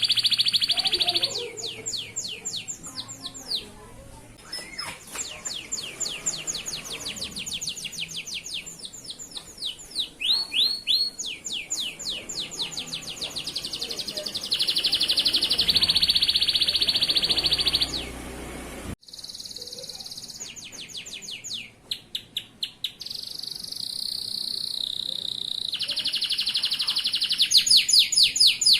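Male domestic canary singing a long, fast song of rapid trills and held rolling notes, broken by a sudden short gap about two-thirds of the way through.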